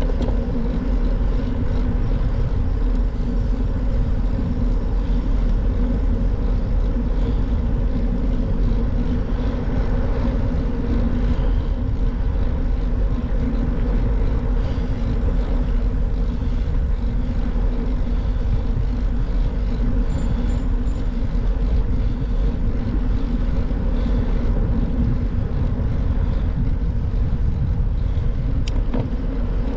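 Steady wind rush and road noise from riding on a moving bike, heaviest in the low end, with a constant low hum throughout.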